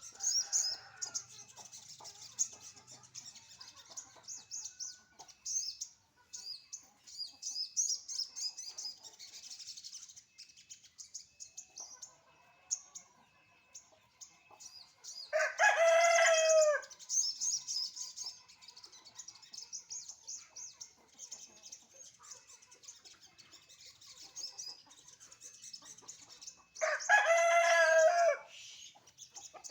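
A rooster crows twice, about twelve seconds apart, each crow lasting about a second and a half. Continuous high chirping of small birds runs underneath.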